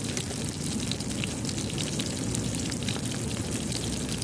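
Eggplant frying in hot oil in a pan, a steady sizzle with many small crackles and pops.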